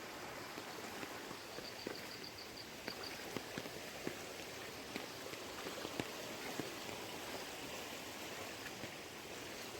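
Floodwater running steadily, a continuous rushing hiss with scattered small splashes and drips.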